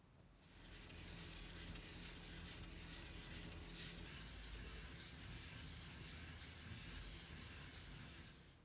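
Steady hiss of a spray nozzle, uneven and fluttering for the first few seconds, then even, stopping shortly before the end.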